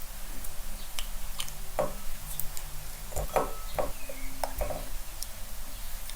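Scattered soft clicks and taps, a few a second at irregular intervals, of kitchen utensils working boiled eggs on a cutting board.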